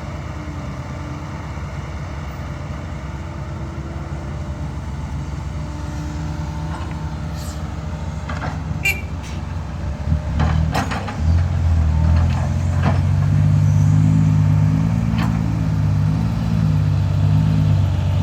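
Dump truck's diesel engine running steadily, then growing louder and heavier after about ten seconds. Several sharp knocks and clanks come through the middle.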